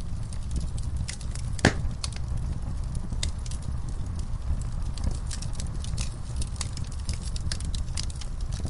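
Wood fire of burning logs in a fireplace crackling: irregular small pops and snaps over a steady low rumble of the flames, with one louder pop nearly two seconds in.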